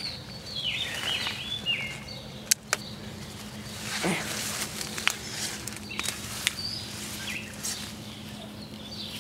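Outdoor ambience with birds chirping on and off, over a steady low hum and a few sharp clicks.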